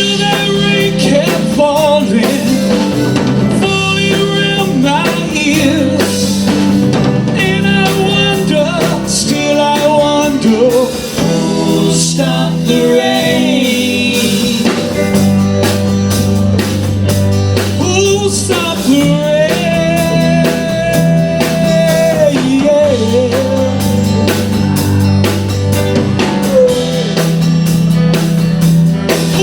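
Rock band playing a mid-tempo song: drum kit, steady bass notes and guitar, with a wavering lead melody over the top.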